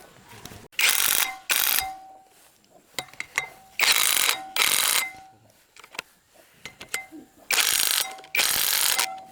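Harsh rasping strokes in pairs from work on metal engine parts. Each stroke lasts about half a second and carries a faint ring, with a pair about every three and a half seconds.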